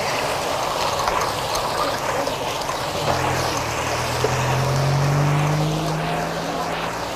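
A car engine running on the road, its low hum coming in about three seconds in and slowly rising in pitch, over a steady rushing noise.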